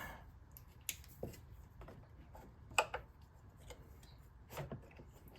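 A few scattered light clicks and taps of tools and plastic while an ignition coil is worked loose from the engine, the loudest about halfway through.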